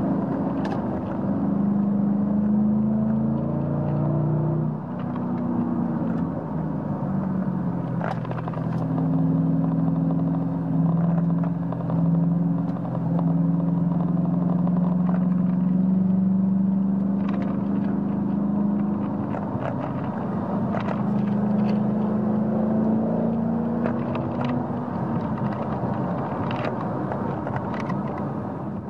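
2009 Ford Mustang's 4.6-litre V8 engine and exhaust, fitted with electric exhaust cutouts, heard from inside the cabin while driving. The engine note climbs, drops about five seconds in, then holds fairly steady.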